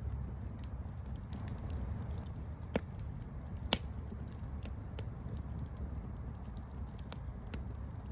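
Campfire burning with a steady low rumble and scattered sharp crackles, two louder pops a second apart near the middle.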